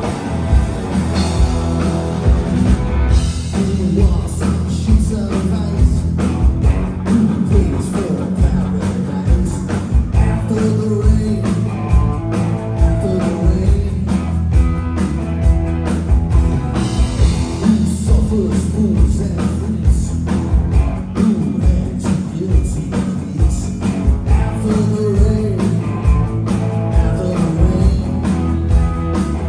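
Live rock band playing a song: a steady drum beat, bass and electric guitar, with a singer's voice coming in at times, picked up at high level by a phone in the audience.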